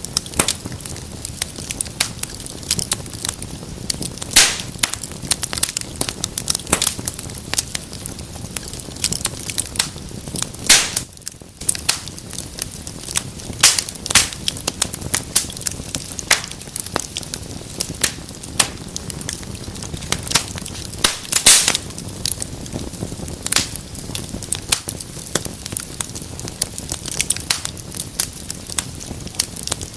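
Wood fire burning in a fireplace: continual crackling with sharp pops under a low, steady rumble of flame, a few pops standing out louder.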